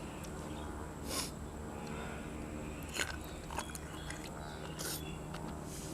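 A person chewing and biting food, with three short crunchy bites, over a steady low hum.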